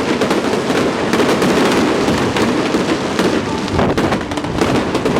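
Fireworks display: a dense, continuous barrage of bangs and crackling shell bursts, with no break.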